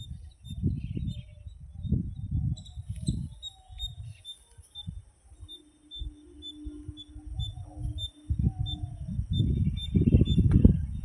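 Outdoor morning ambience dominated by irregular low gusts of wind buffeting the microphone, with faint bird chirps and a thin, high call pulsing two or three times a second in the background.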